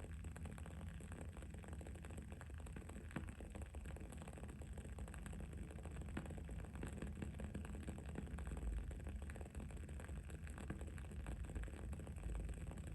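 Wood-wick candle burning, its wick crackling in many small, irregular pops, over a steady low background rumble and faint hiss.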